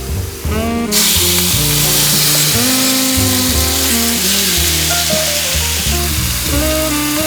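Food frying in a hot pan: a loud, steady sizzle that starts suddenly about a second in, over background music.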